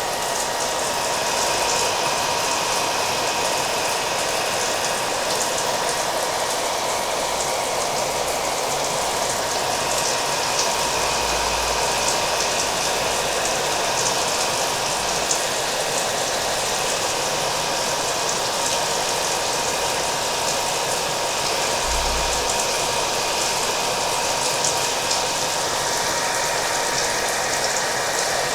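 Hair dryer running steadily with a thin, even whine, mixed with falling rain pattering on a surface.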